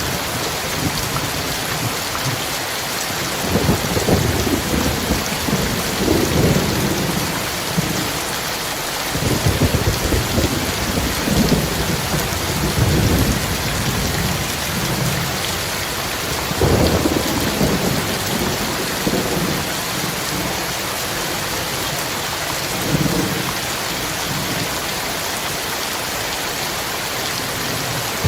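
Heavy rain pouring steadily, with low rolls of thunder rumbling in and out several times.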